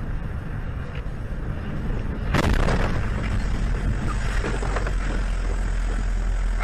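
Steady low rumble of a car's engine and road noise. About two and a half seconds in there is a sudden sharp bang, and the noise stays louder after it.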